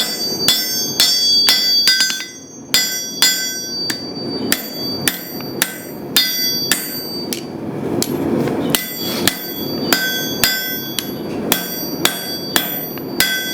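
Hand-forging: a hammer striking a chunk of hot lawnmower-blade steel on an anvil, about two ringing blows a second, with two short pauses.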